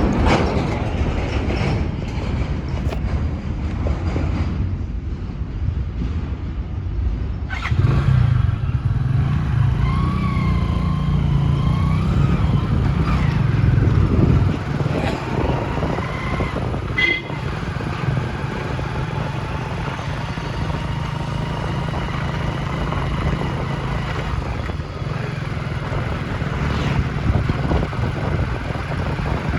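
Road vehicle driving through city traffic: steady engine and road noise, with a few brief pitched sounds from the surrounding traffic about a third and halfway through.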